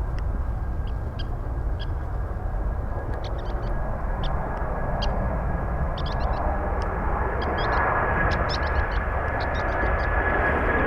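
Jet airliner engines growing steadily louder as a departing aircraft approaches: a steady high whine over a low rumble. Short high chirps come and go throughout.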